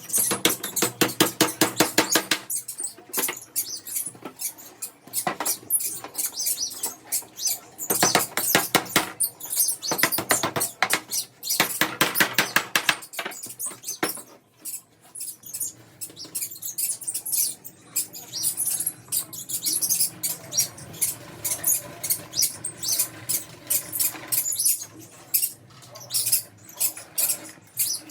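Rapid scratchy strokes on wood, many per second, in bursts of a few seconds with short pauses between, as in hand work such as sawing or sanding.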